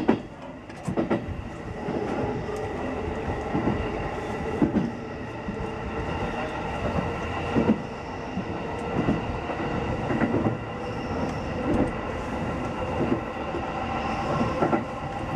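Running noise inside a JR East E233-6000 series electric commuter train in motion: a steady rumble with a hum of level tones, and wheel clicks over rail joints at irregular intervals of about a second or so.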